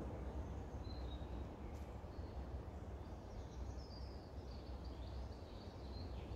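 Faint songbird singing: a short high chirp about a second in, then a thin, warbling phrase from about three seconds in, over a low rumble of wind on the microphone.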